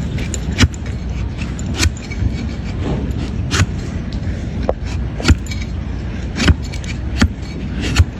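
Hoof knife paring a donkey's overgrown hoof: about seven sharp cutting strokes, roughly a second apart, over a steady low rumble.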